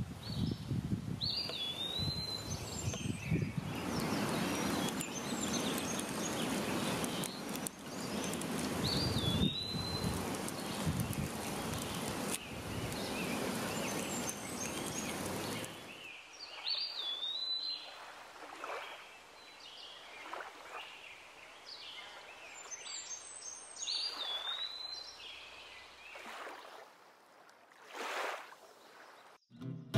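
A bird repeating a short high call every few seconds over outdoor wind noise; the wind rumble drops away about halfway through, leaving the calls and faint rustles.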